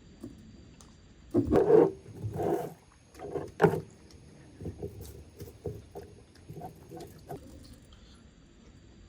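Eating sounds: a few loud crunches and a sharp crack as mud crab shell is broken and bitten, in the first half, then a run of softer clicking chews.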